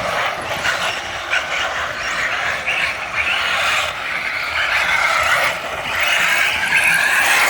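Radio-controlled cars running on a dirt track: electric motors whining, rising and falling in pitch as they speed up and slow down, with tyres scraping and skidding.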